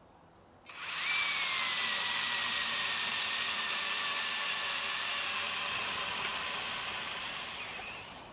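Small battery electric chainsaw cutting dry, dead ash: the motor starts about a second in and runs steadily, its whine sinking slowly in pitch as the chain works through the wood, then runs down near the end.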